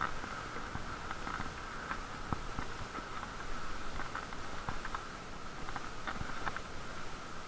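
Bicycle riding noise muffled by a waterproof camera case: a steady rolling hum with scattered small clicks and rattles.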